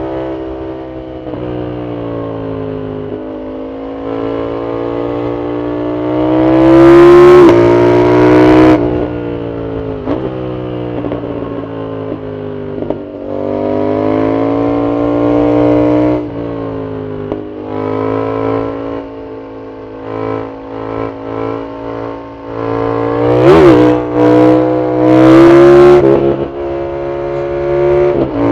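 Yamaha MT-07's CP2 parallel-twin engine through a full Arrow exhaust, riding hard: its pitch climbs and drops several times as it pulls through the gears and rolls off. The two loudest full-throttle pulls come about seven seconds in and near the end, with short choppy throttle blips between them.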